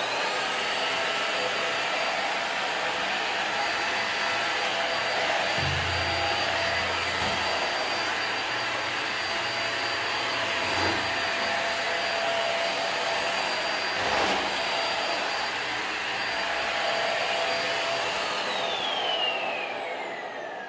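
Black+Decker Versalite AV12 corded stick vacuum switched on, its motor spinning up to a steady high whine and running while it sucks up hair from the floor. Near the end it is switched off and the whine falls in pitch as the motor winds down.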